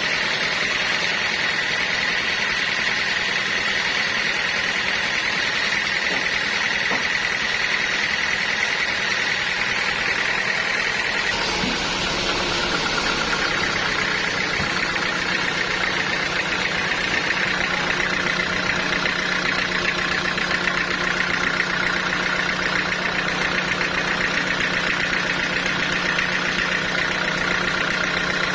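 Sawmill saw running steadily through a large log, a continuous machine whine with a drone beneath it. About eleven seconds in, the pitch of the whine drops and a low hum comes up, as the load on the saw changes.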